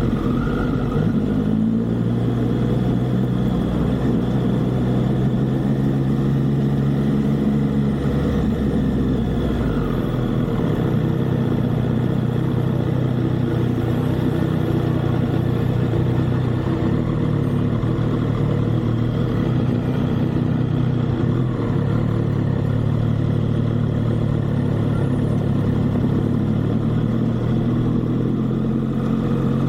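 Motorcycle engine running steadily while riding, with a change in the engine note about ten seconds in.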